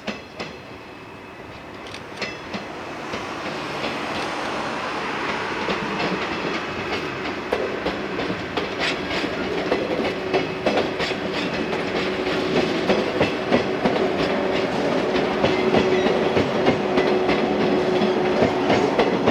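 Electric train set running close by, its wheels clacking rhythmically over rail joints as it grows louder over the first several seconds. From about eight seconds in, a steady hum holds under the clatter.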